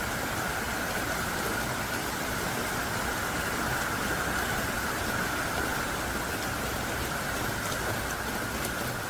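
Heavy rain falling steadily, a dense even hiss of thick drops, with a few faint drop ticks near the end.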